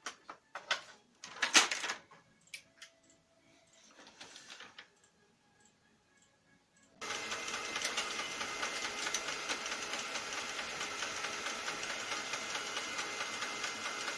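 Lexmark X364dn laser printer's drive mechanism starting up about halfway through and running steadily with a fast, even grinding rattle, the fault noise that the owner finally traced to the duplex assembly. Before it, a few sharp clicks and knocks.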